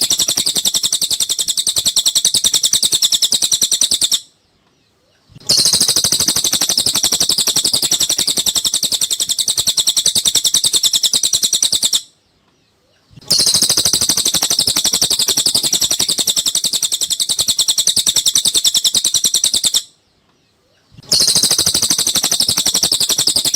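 Cililin song: a rapid, high-pitched chattering trill of tightly packed notes, in stretches of about eight seconds broken three times by a second of silence. It is a looped tutor recording for teaching caged songbirds.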